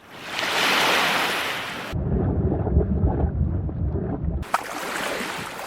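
Intro sound effects of rushing surf and wind: a hissing whoosh swells in and cuts off abruptly about two seconds in, giving way to a low churning rumble. Near the end the rushing noise returns with a few sharp clicks.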